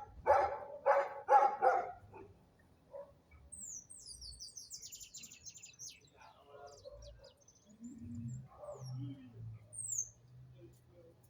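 A dog barks four times in quick succession, then small birds chirp: a rapid run of high, falling notes a few seconds in, and another single high chirp near the end.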